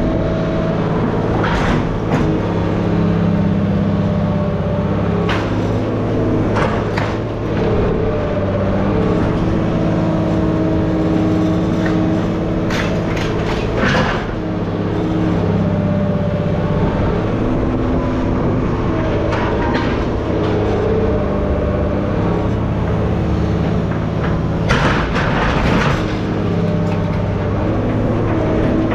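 A machine's engine running steadily, with sharp clanks and knocks of metal now and then.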